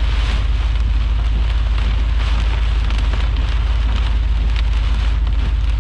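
Heavy rain falling steadily, with scattered sharper hits and a constant deep rumble underneath.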